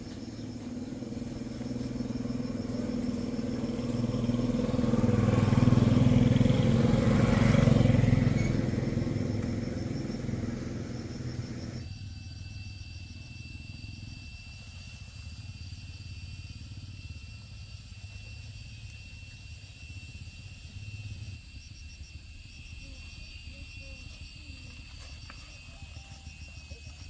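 A motor vehicle engine running, growing louder to a peak about six to eight seconds in and then fading away. About twelve seconds in, the sound changes abruptly to a quieter scene with steady high-pitched tones.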